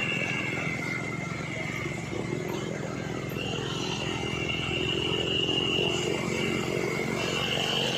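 Heavy truck's diesel engine running steadily, with a high, thin steady whine above it that drops slightly in pitch twice.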